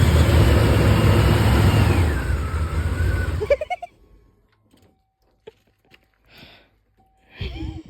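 A 1991 Ford F-150 engine starting and running briefly on its new spark plugs, wires, distributor cap and rotor, then cutting out suddenly after about three and a half seconds. It runs just long enough to put out exhaust.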